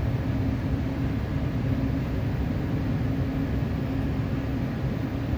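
Metro train running at speed, heard from inside the carriage: a steady rumble with a constant low hum.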